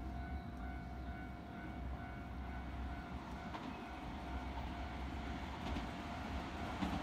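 Electric commuter train approaching a station on the Keisei line, its running noise growing louder toward the end over a steady low rumble.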